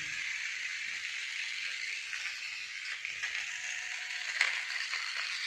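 Battery-powered toy car switched on and running: a steady whir from its small motor and plastic gears, with scattered clicks, one sharper click about four seconds in.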